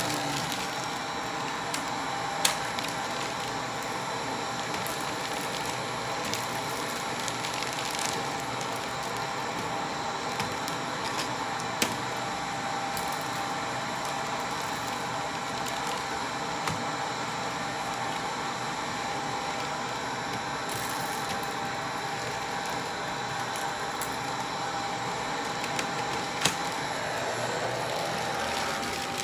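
Vacuum cleaner running steadily with a constant motor whine, sucking up mess-test debris from a rug, with a few sharp clicks and cracks as pieces are pulled in.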